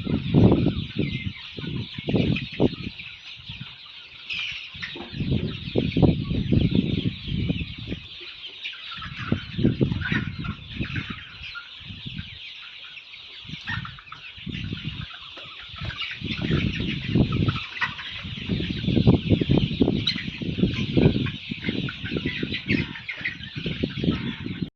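A flock of Sonali chickens clucking and chirping continuously, with frequent low thuds and knocks in between.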